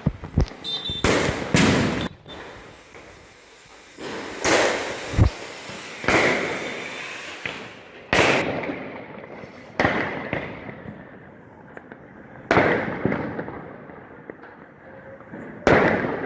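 Firecrackers going off in a celebration: about ten sharp bangs, some less than a second apart and others several seconds apart, each trailing off in a fading echo.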